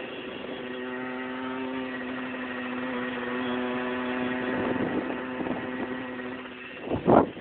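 Motorcycle engine running at a steady speed, a constant pitched hum. Near the end there is a brief, loud burst of noise.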